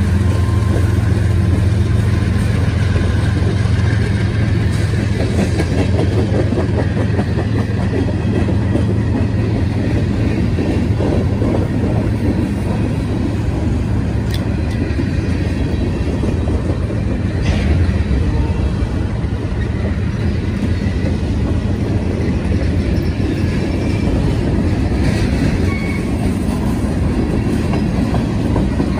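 CSX freight train passing close by. The trailing diesel locomotive's engine hums low for the first few seconds as it goes past. Then come the steady rumble and clickety-clack of loaded covered hopper cars' wheels over the rail, with a brief sharper sound about two-thirds of the way through.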